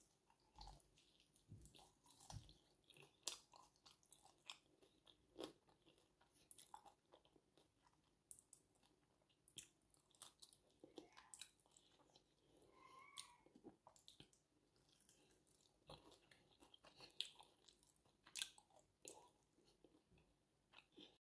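A person faintly chewing and biting into crispy chili chicken, with scattered sharp crunches and clicks.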